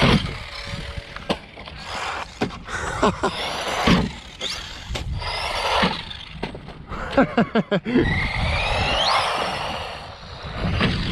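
Small-scale brushless RC car driving hard over rough ground: tyres scraping and rattling, with a string of sharp knocks from bumps and landings. About three-quarters of the way through, the motor winds up in a rising whine.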